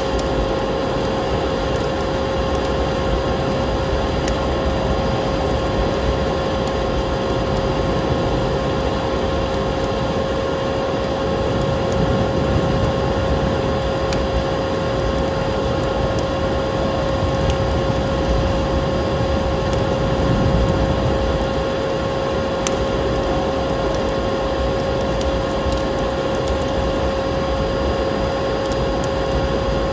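Vacuum cleaner running steadily with a constant motor whine, layered with the scattered crackle of a wood fire.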